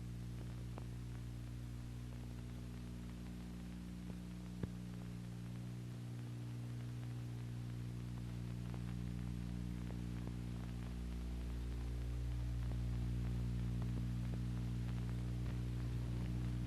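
Steady low electrical hum with several overtones, unchanging in pitch and swelling slightly in its lowest part in the second half. Two faint clicks, one about a second in and one between four and five seconds.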